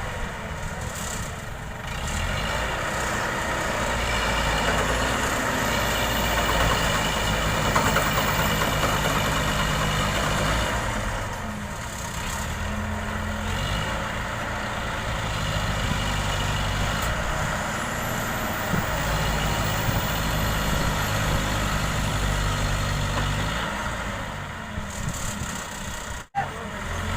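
Heavy diesel engines of a hydra crane and truck running steadily under load during a recovery pull, their pitch shifting now and then. The sound drops out for an instant near the end.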